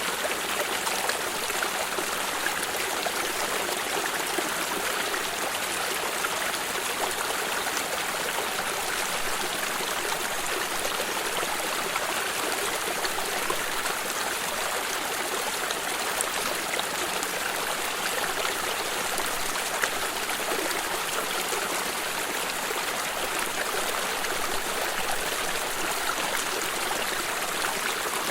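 Small stream running steadily over stones, a continuous babbling rush of water with faint trickles and splashes.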